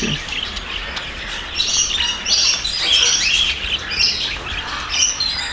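A mixed flock of aviary parrots, lovebirds among them, chirping over one another in many short, high chirps.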